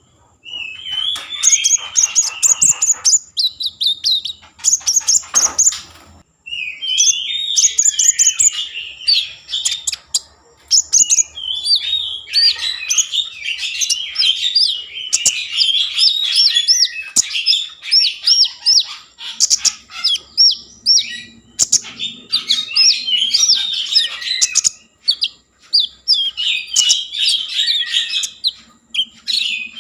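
A konin songbird singing a long, rapid stream of varied chirps and trills, in fast bursts with a few short breaks near the start. This is the bird in full, energetic song, the kind of recording used as a lure to set other konin singing.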